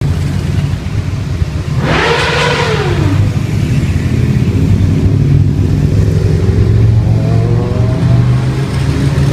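Several motorcycles running with a steady low rumble. About two seconds in, one bike revs up and back down, and another revs rising near the end.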